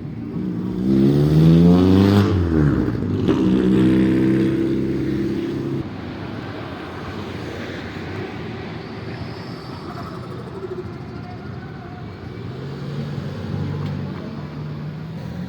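Car engine revving: it climbs in pitch about a second in and drops back just after two seconds. A second rev is held steady for a few seconds, then the engine settles to a quieter, lower running sound.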